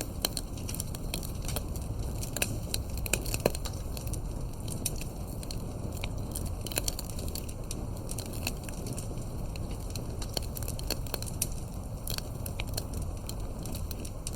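Fireplace crackling: irregular pops and snaps over a steady low rumble, with one sharper pop about three and a half seconds in.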